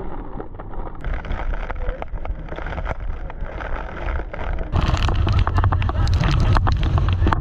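Wind buffeting the microphone over the rush of a boat ride on the water. It gets much louder and gustier, with crackling, about five seconds in.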